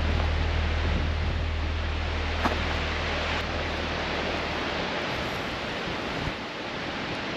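Steady rushing noise, with a low steady hum underneath that stops about five seconds in.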